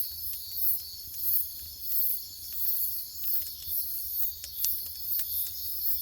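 Night insect chorus of crickets: a high chirping that pulses about one and a half times a second over a steady high trill, with scattered faint clicks.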